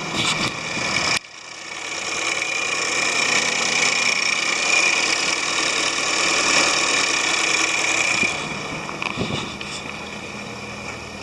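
Volvo V70 T4's B4164T 1.6-litre turbocharged four-cylinder engine running. The sound cuts down suddenly about a second in, then builds with a high-pitched whine over a few seconds and eases back after about eight seconds.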